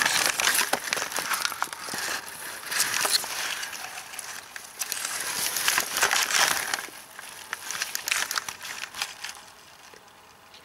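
Rustling and crackling of grass and wild strawberry plants being parted and handled while berries are picked, with many small clicks; it dies down about eight seconds in.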